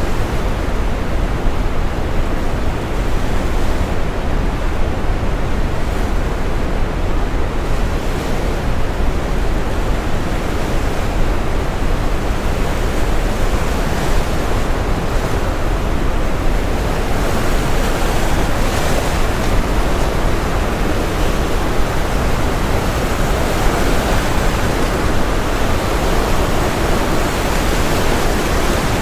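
Steady brown noise, a deep even hiss, mixed with the wash of ocean waves breaking; the higher hiss of the surf swells up a few times, most strongly in the second half.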